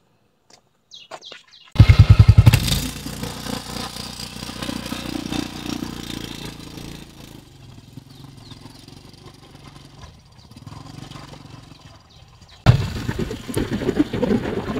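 Motorcycle engine starting with a sudden loud burst of fast low pulses, then running more quietly and steadily. Near the end the sound cuts to a louder, rougher noise.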